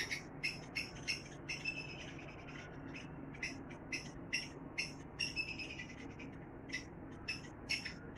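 Small birds chirping: short, high, sharp chirps repeated irregularly, two or three a second, over a faint steady low hum.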